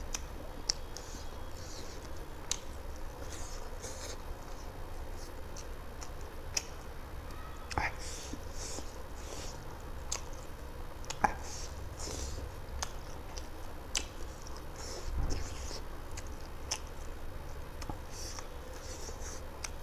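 Close-miked chewing and mouth sounds of a person eating rice and chicken curry by hand: wet smacking with sharp clicks scattered irregularly, over a low steady rumble.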